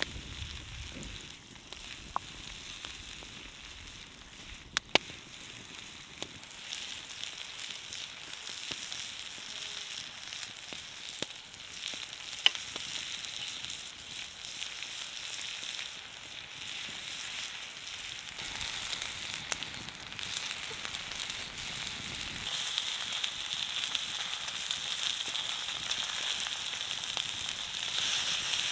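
Lamb chops and sliced vegetables sizzling in fat on a wide flat griddle pan, with a few sharp pops. The sizzle grows louder over the last several seconds.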